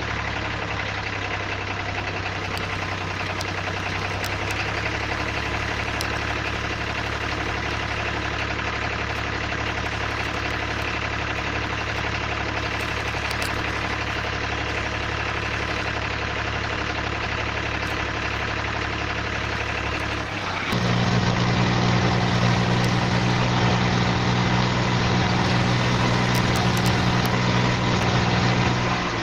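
Tractor engine running steadily. About 21 s in it steps up to a higher, louder note and holds there.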